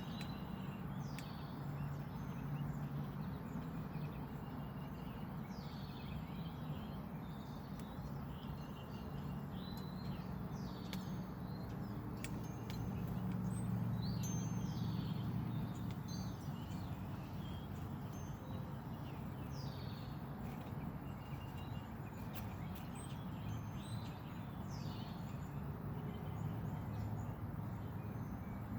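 Several birds chirping and calling in short repeated phrases, over a steady low rumble that swells a little midway.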